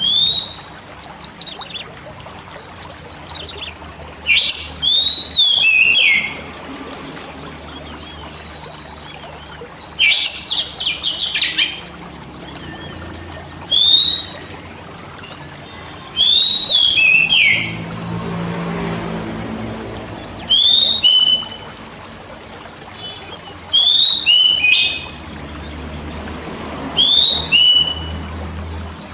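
Oriental magpie-robin (kacer) singing: short curved whistled notes repeated in phrases every two to three seconds, with a fast chattering burst about ten seconds in.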